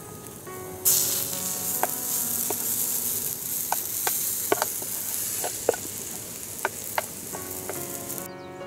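Pancake batter sizzling in a hot pan, with a few sharp clicks along the way. The sizzle starts suddenly about a second in and cuts off near the end.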